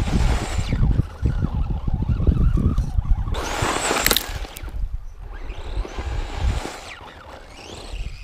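Truck motor revving hard in three bursts, its pitch rising and falling with each, over a steady rough rumble of wind on the microphone.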